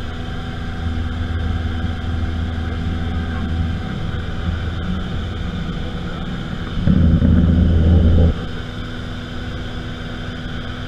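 Aeroplane engine droning steadily at constant speed. It swells louder about seven seconds in for a second or so, then settles back.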